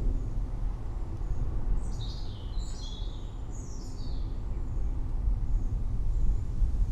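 Forest ambience: a steady low rumble underneath, with a bird giving a quick run of three or four falling calls about two seconds in and faint short high chirps scattered throughout.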